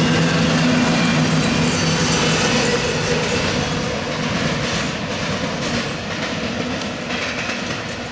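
CSX intermodal train's double-stack well cars rolling past on steel rails, the wheels clicking over the rail joints. The sound fades steadily as the end of the train moves away.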